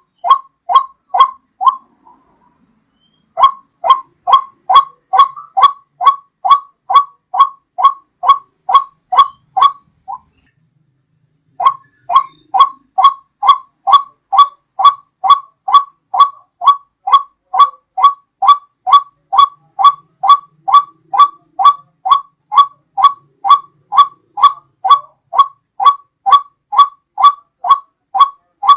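White-breasted waterhen (ruak-ruak) call played as a hunting lure: one loud note repeated quickly and evenly, about two and a half times a second. The calling comes in three runs, with brief pauses about two seconds and ten seconds in.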